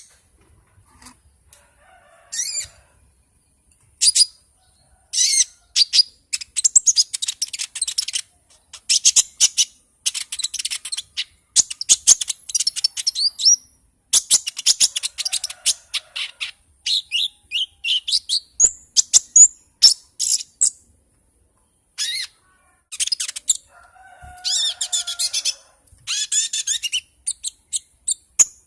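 Konin songbird singing in full voice: quick bursts of high chirps and rapid trills, phrase after phrase with short pauses between.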